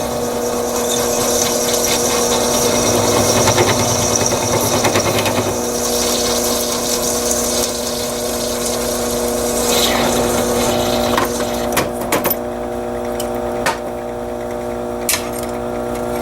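Drill press motor running with a steady hum while a unibit step drill cuts a 5/16-inch bolt hole through a metal plate. The cutting noise eases after about ten seconds, and a few sharp clicks and knocks follow near the end.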